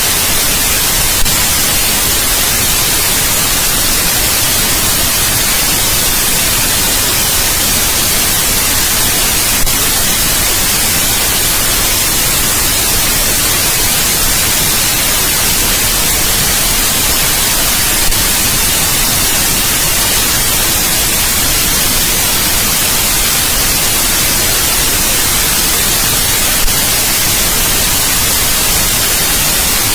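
Steady white noise: an even, loud hiss, brightest in the treble, with a faint click four times.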